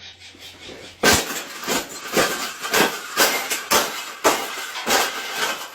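Repeated sharp banging, about two strikes a second, starting about a second in.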